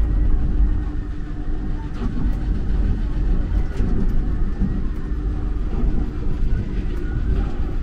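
Düsseldorf Airport SkyTrain running along its track: a steady low rumble with a faint, even hum over it.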